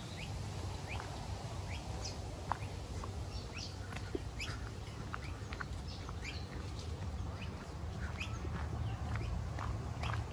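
Birds chirping: many short, scattered chirps over a steady low rumble.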